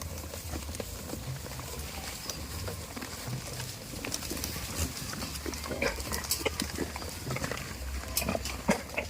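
Goats in a herd giving short calls amid clicks and knocks, which grow busier about halfway through, over a steady low rumble.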